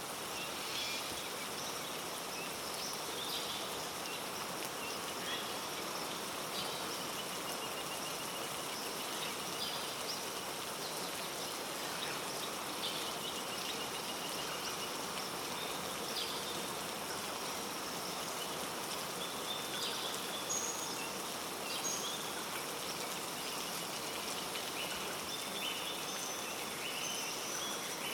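Steady heavy rain falling on rainforest, with many short high-pitched chirping calls of forest animals sounding over it throughout.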